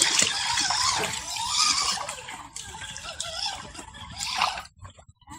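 Creek water trickling and splashing, loudest in the first two seconds and then fading.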